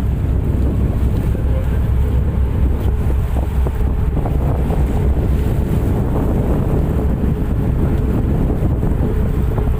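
Steady low rumble of a tugboat's engines running, with wind buffeting the microphone.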